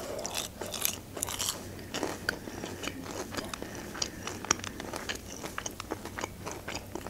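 A person biting into a fried onion ring and chewing it, with many small, crisp crunches.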